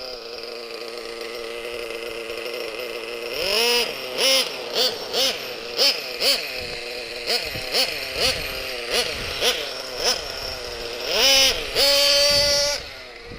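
1/6-scale Protech Promax RS nitro RC truck's .21 two-stroke glow engine, running steadily at first. From about three seconds in it is revved in about a dozen quick blips, and near the end it holds one longer high rev for about a second and a half before dropping back.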